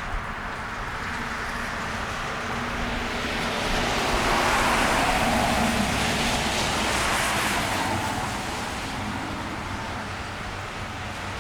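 A car passes on a wet street, the hiss of its tyres on the wet road swelling to a peak about halfway through and then fading, over a steady wash of rain.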